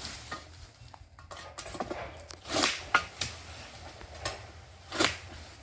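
Egrek oil palm harvesting sickle cutting through palm fronds: a series of sharp, separate slicing and rustling strokes, the loudest about halfway through and near the end.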